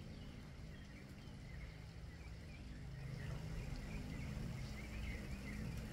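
Birds chirping in short, wavering calls, many times over, above a low steady hum.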